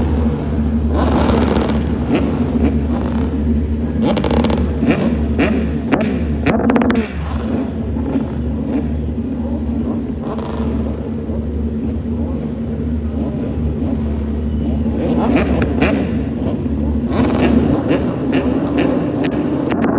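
Moto2 racing motorcycles' Triumph 765 cc three-cylinder engines running, with a steady low drone and several bursts of revving that rise in pitch.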